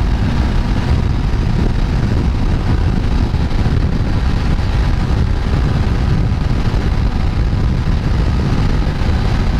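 Motorcycle riding: loud, steady wind rushing over the microphone, with the engine running evenly underneath.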